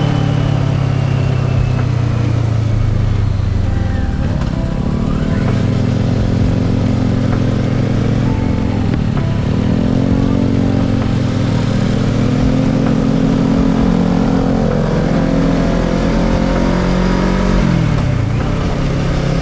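Kawasaki ER-6n's parallel-twin engine running as the bike is ridden, its note dipping and climbing back up three times.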